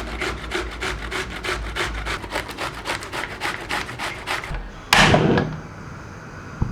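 Fast, even strokes of hand food preparation, about five a second, that stop after about four and a half seconds. A loud rushing noise follows about five seconds in and lasts about half a second.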